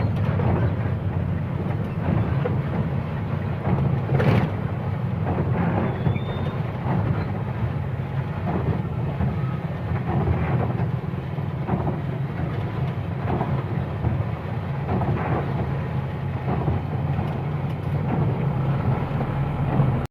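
Truck engine and road noise heard from inside the cab while driving, a steady low drone, with a brief louder knock about four seconds in.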